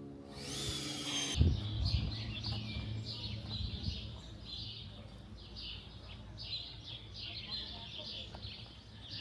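Small birds chirping in quick, repeated short notes. About a second in, a brief rising whoosh ends in a sharp thump.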